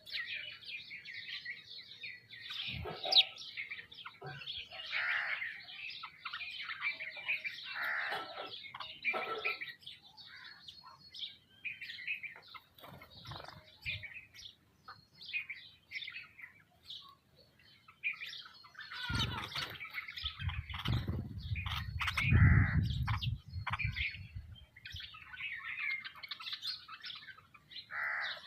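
A mixed flock of small birds, sparrows and mynas, chirping and calling continuously over one another while feeding. A low rumble rises over the chirping about twenty seconds in and fades after a few seconds.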